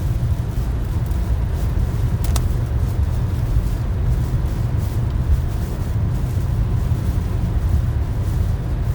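Strong wind buffeting the microphone: a loud, steady low rumble that gusts up and down, with a single short click about two and a half seconds in.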